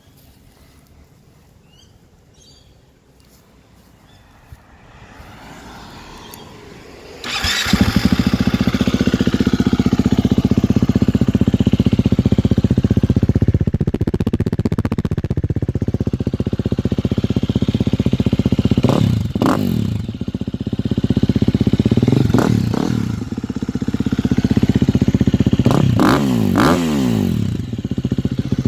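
A 2018 KTM 350 EXC-F's single-cylinder four-stroke engine, breathing through an FMF 4.1 RCT titanium muffler, starts up about seven seconds in and settles into a steady idle. It is blipped briefly about four times, with the last two close together.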